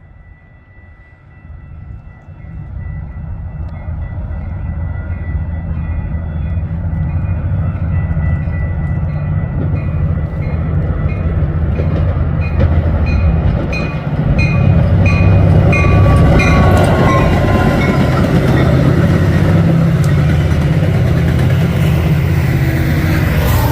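A train approaching and passing, its low engine rumble building and growing louder about halfway through. A high ringing repeats about twice a second for several seconds while the rumble builds.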